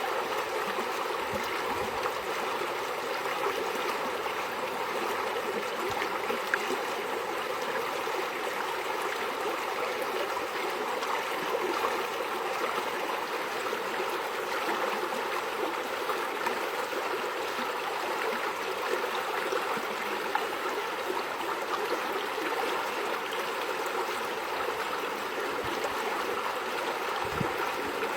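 Steady running water of a small stream, flowing and trickling.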